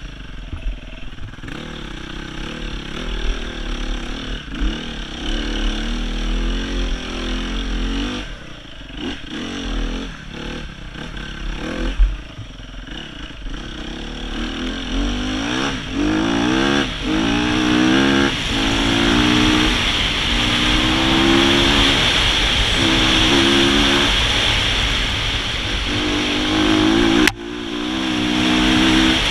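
Sherco 300 four-stroke enduro motorcycle's single-cylinder engine being ridden hard: uneven throttle at lower revs at first, then from about halfway accelerating, its pitch climbing and dropping back repeatedly as it shifts up, under a rushing hiss that grows with speed. A sharp knock about twelve seconds in, and a sudden break in the sound near the end.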